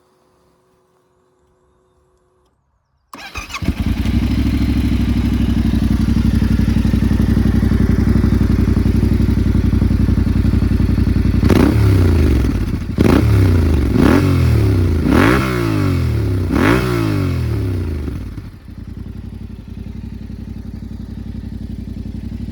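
Yamaha Ténéré 700 World Raid's parallel-twin engine through an SC Project aftermarket exhaust: it starts about three seconds in and idles loudly, then gets several quick throttle blips, each rising sharply and falling back, before dropping back to a quieter idle.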